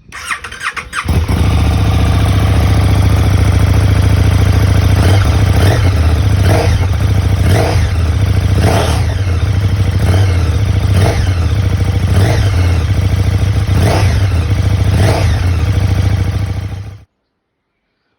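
KTM 1290 Super Duke GT's V-twin engine through an Arrow titanium slip-on exhaust with the baffle fitted: started on the starter, catching about a second in, then idling with about ten short blips of the throttle. The sound stops abruptly near the end.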